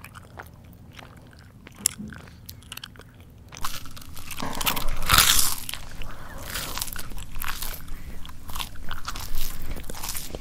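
A person chewing crunchy food close to the microphone: soft scattered mouth clicks at first, then loud, dense crunching from about a third of the way in.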